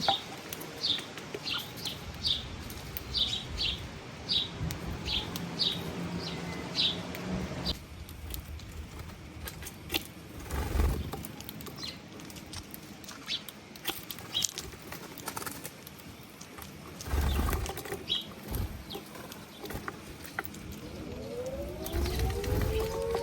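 A small bird chirping: short high chirps about two a second for the first several seconds, then only scattered clicks and thumps such as wing flutters. Near the end music swells in with rising tones that settle into a held chord.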